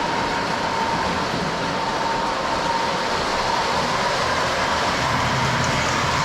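Lionel O-gauge F3 diesel model train running on O31 track: a steady whir of the motors and rolling wheels with a constant whine.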